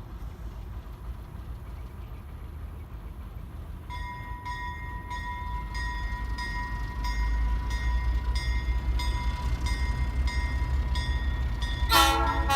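Alco S-6 diesel switcher locomotive rumbling and growing louder as it moves, its bell ringing steadily at about two strikes a second from about four seconds in. A loud horn blast starts near the end.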